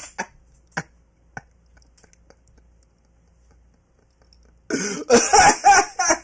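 A person coughing hard in a loud burst about three-quarters of the way through, after a few faint clicks.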